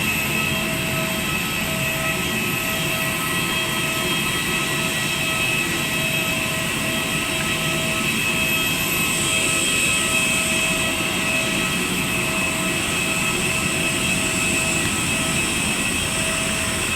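Steady cabin noise inside an Airbus A320 on the ground: a constant rushing hum with several steady whining tones, one of them faintly pulsing.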